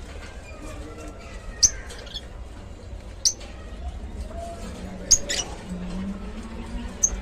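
Lovebirds giving short, sharp, high-pitched chirps, a single chirp every second or two and a quick double chirp about five seconds in.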